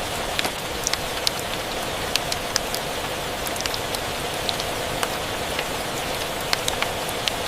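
Steady rain hiss mixed with a fireplace crackling, giving frequent short, sharp, irregular pops.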